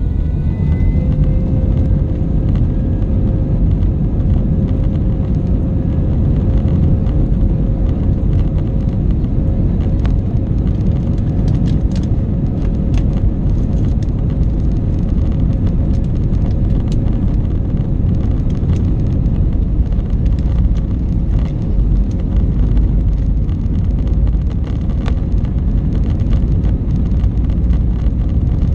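Airbus A320 jet engines at takeoff power, heard from inside the passenger cabin during the takeoff roll: a loud, steady rumble with a held engine tone that settles about a second in. A few light clicks and rattles come between about ten and seventeen seconds in.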